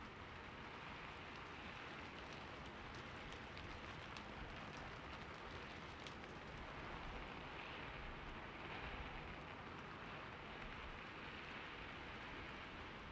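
Steady rain falling on a roof: an even hiss with scattered individual drops ticking.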